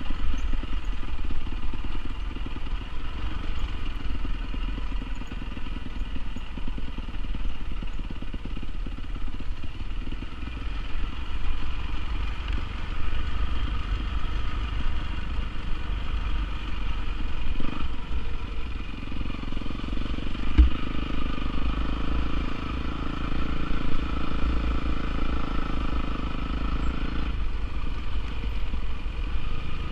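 Honda CRF450R single-cylinder four-stroke dirt bike engine running, with a low rumble and a steady drone that grows stronger past the halfway mark. One sharp knock about two-thirds of the way in.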